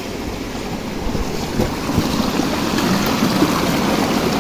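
Water rushing steadily in a stream, with wind noise on the microphone; it grows a little louder about a second and a half in.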